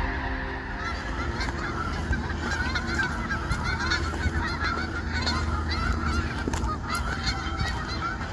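A flock of Canada geese honking, many overlapping calls at once in a busy chorus that starts about a second in.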